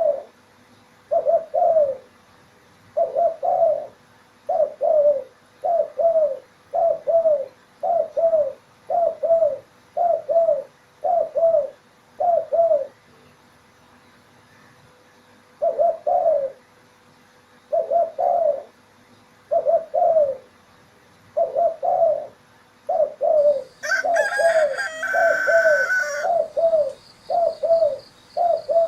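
Spotted dove (tekukur) cooing: short, falling coo phrases repeated about once a second, with a pause of a couple of seconds partway through. Near the end another bird's louder, higher-pitched call cuts in for about two seconds.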